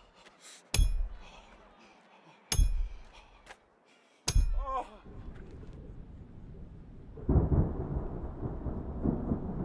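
A hammer striking a metal nail three times, about one and three-quarter seconds apart, each blow ringing sharply. A short wavering cry follows the last blow, and a low rumble starts about seven seconds in.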